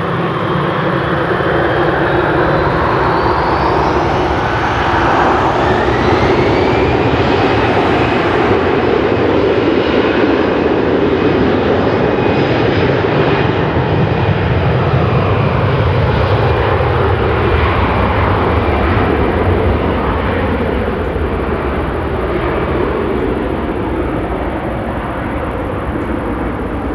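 Airbus A320-200 jet engines spooling up to takeoff power, with a whine rising in pitch over the first several seconds, then running steadily and loud as the aircraft rolls, easing off a little near the end.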